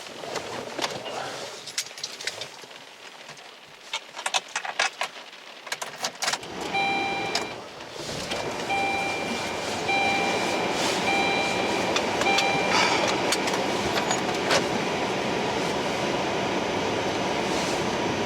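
Keys jangling and clicks of getting into a car, then the car's engine starting about six seconds in. A car's warning chime repeats for several seconds, over the steady rush of the running car.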